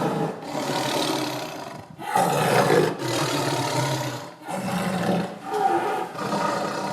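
A big cat roaring and growling over and over, a string of rough calls each lasting about a second.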